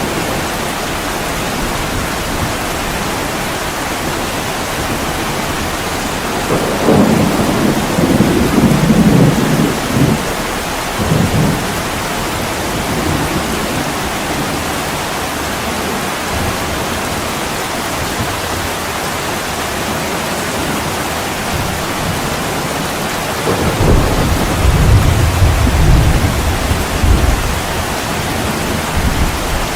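Steady heavy rain with two long rolls of thunder, one about seven seconds in and another near the end.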